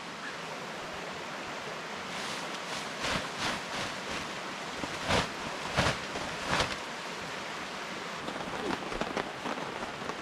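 Tent being packed up: a handful of short thumps and rustles from about two to seven seconds in, over a steady rushing background. Near the end the first scattered raindrops begin to tap.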